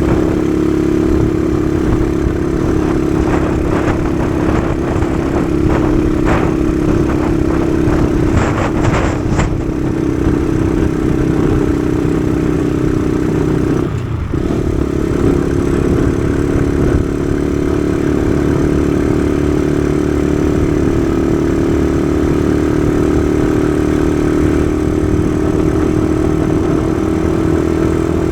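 Kawasaki KSR110's small single-cylinder four-stroke engine running steadily under way, with a brief drop in engine sound about halfway through before it picks up again. There is a low rumble throughout and a few scattered clicks in the first third.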